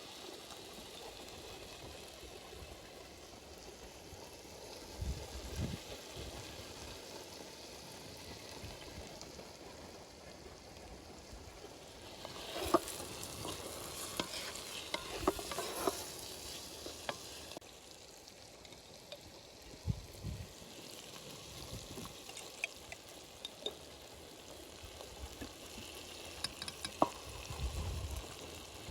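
Food sizzling in hot oil in a cooking pot for pilaf, with a ladle stirring and scraping against the metal in scattered clicks and scrapes, busiest about twelve to sixteen seconds in.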